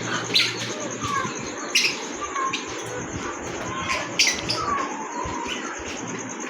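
Small parrots, lovebirds and cockatiels, chirping in an aviary: short chirps throughout, with four sharp squawks standing out, the last two close together about four seconds in.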